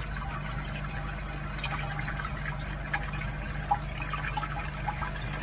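Water running from a kitchen-style faucet in a thin, steady stream into a sink, with a few faint drips over a steady low hum.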